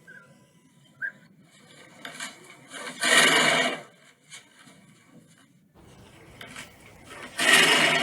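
A horse snorting twice, two short, loud, breathy blasts about four seconds apart.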